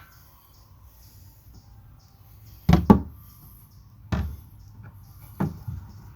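Hard knocks and clunks of metal parts and tools being handled while working on a tractor's hydraulic screen housing. There is a quick pair of knocks a little under three seconds in, then single knocks at about four and five and a half seconds.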